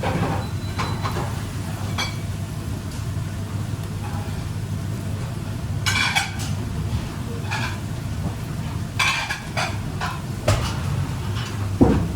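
Pots, pans, dishes and utensils clattering now and then in a working kitchen, with a few sharper knocks over the second half, over a steady low hum.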